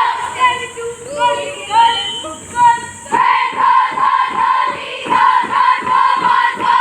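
A group of voices singing in unison over a steady beat of about three strokes a second, starting suddenly about three seconds in, after a few single voices calling out.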